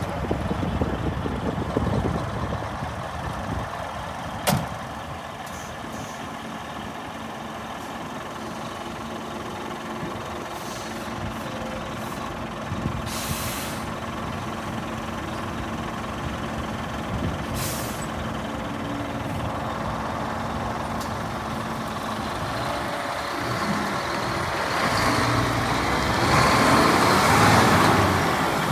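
Scania R480 truck's diesel engine idling, with two short hisses of compressed air midway through. The engine grows louder near the end.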